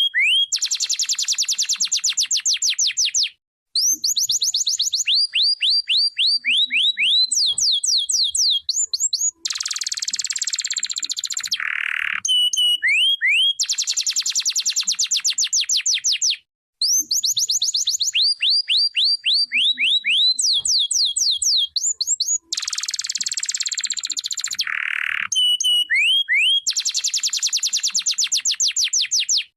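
Domestic canary singing: fast trills of rapid repeated notes and rising sweeps with a harsh buzzy stretch, the same song sequence repeating about every 13 seconds.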